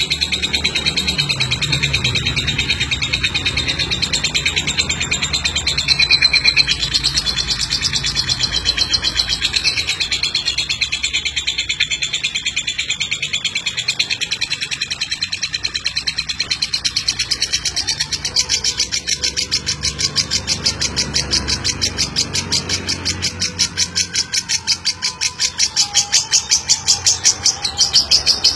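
Lovebird giving its long 'ngeklek' song: a rapid, unbroken run of high, rattling chirps, growing louder near the end.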